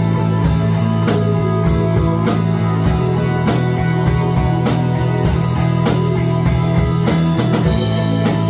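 Rock band playing live: drum kit keeping a steady beat of about two hits a second under electric guitar and a strong, sustained bass line.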